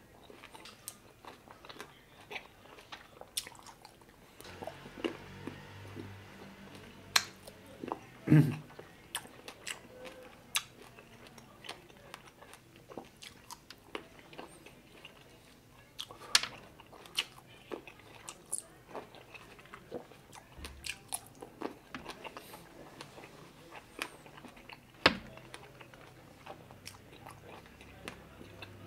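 A person chewing and biting into red grapes: mouth sounds with many irregular sharp clicks, a few of them louder than the rest.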